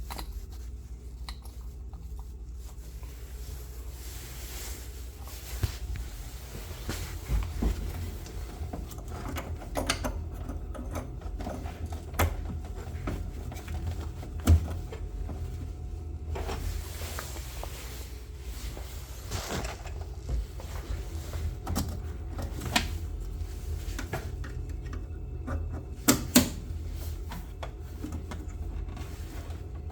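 Irregular knocks and clicks from boiler parts being handled and fitted during repair work, over a steady low hum, with a sharp double knock near the end.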